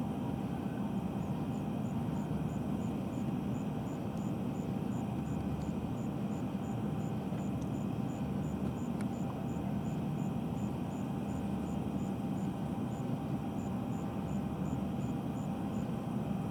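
Eurocopter EC135 T2+ helicopter's twin Turbomeca Arrius 2B2 turboshaft engines running steadily on the ground during start-up: a low rumble under a steady whine, at an unchanging level. A faint, high, regular ticking, about twice a second, runs over it.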